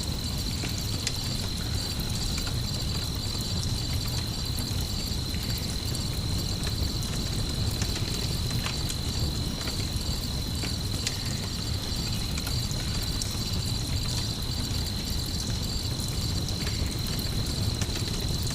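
Campfire crackling with scattered sharp pops over a low steady rumble, while crickets chirp in a continuous high trill.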